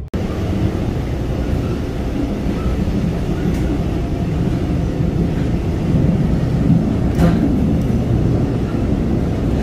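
Passenger train running at speed, heard inside the carriage: a steady low rumble, with a brief knock about seven seconds in.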